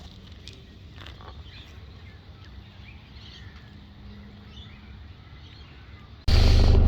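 Quiet background with a few faint high chirps, then about six seconds in a loud, steady low rumble starts suddenly.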